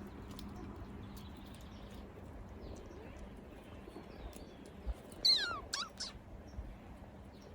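A kitten meows once, a short high call that falls in pitch, over faint scattered clicks.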